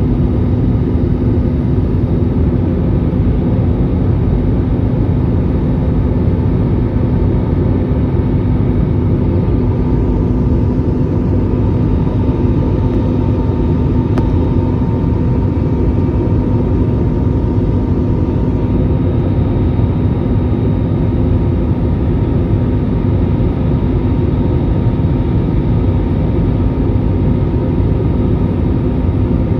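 Airliner cabin noise during landing: a loud, steady rumble of engines and airflow with a constant low hum over it.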